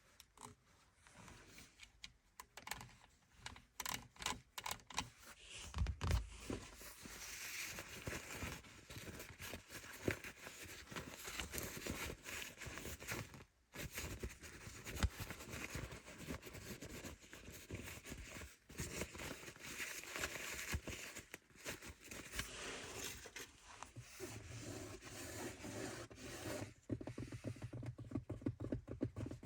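Fingernails tapping and scratching on car surfaces: quick irregular taps in the first few seconds, then steady scratching with a few brief pauses.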